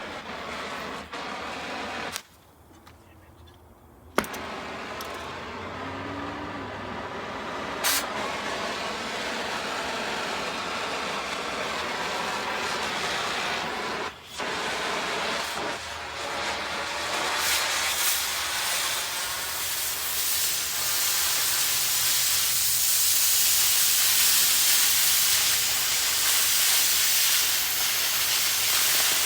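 A vehicle on the road: steady hissing road and wind noise, broken by several abrupt cuts, growing louder and brighter through the second half.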